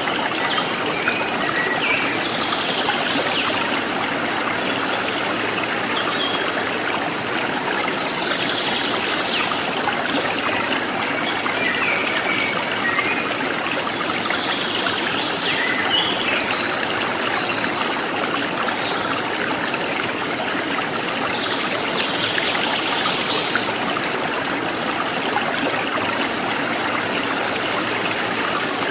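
A forest stream trickling and splashing steadily, with wild birds calling above it every few seconds.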